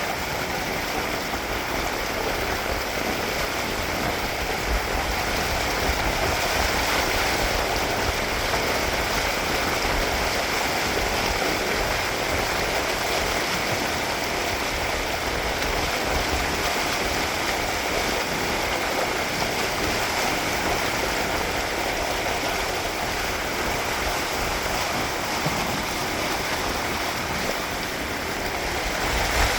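Steady rush of water streaming past the hulls of a Windrider 17 trimaran sailing fast, with wind rumbling on the microphone.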